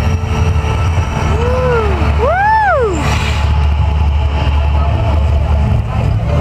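Mirage volcano attraction rumbling loudly and steadily in a deep low register. Partway through, a spectator's voice gives two rising-and-falling whoops, the second louder.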